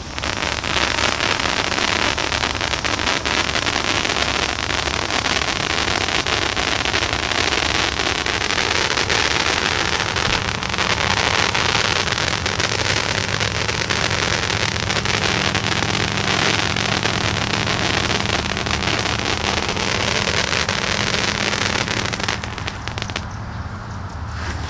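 Ground fireworks going off in a dense, continuous crackle for about twenty seconds, then dying away near the end, with a low steady hum underneath in the second half.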